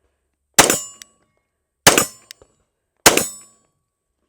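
Glock 22 Gen 4 pistol in .40 S&W firing three single shots, a little over a second apart, each with a short ringing tail.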